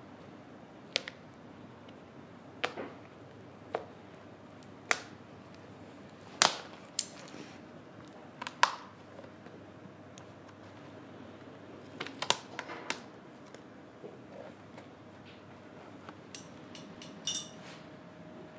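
Hand tools being handled and set down during shoe sole repair: about a dozen sharp clicks and knocks at uneven spacing, some in quick pairs, with a short rattle near the end.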